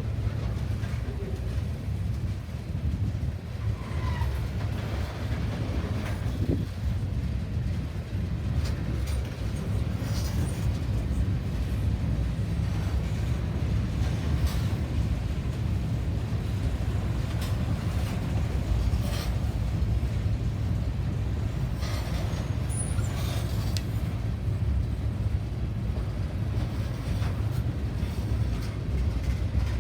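A train running, heard as a steady low rumble with scattered sharp clicks and clanks.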